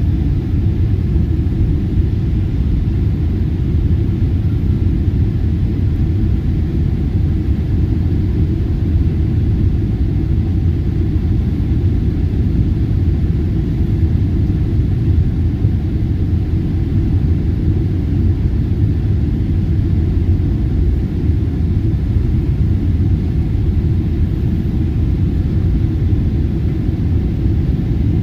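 Airliner cabin noise heard from a passenger seat: the jet engines and airflow make a steady low rumble.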